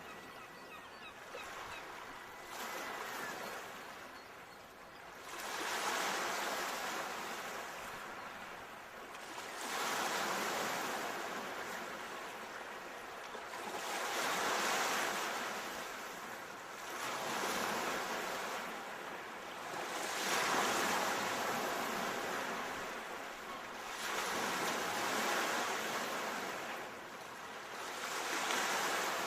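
Ocean surf: waves breaking and washing in, swelling and fading about every three to four seconds.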